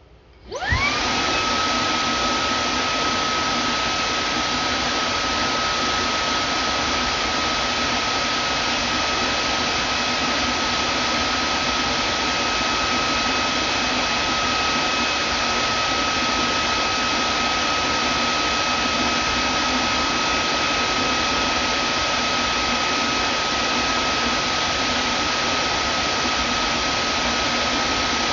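Vacuum cleaner switched on: its motor spins up with a quickly rising whine about half a second in, then runs steadily, a high whine over loud, even airflow hiss.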